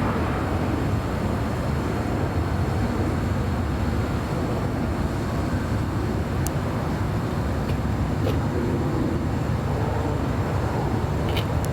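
Steady low rumble of jet aircraft engines at the airport, with a few faint clicks in the second half.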